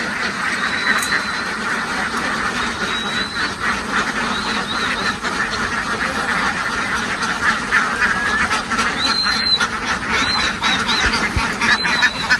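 A large flock of ducks quacking continuously, many calls overlapping into a steady chatter.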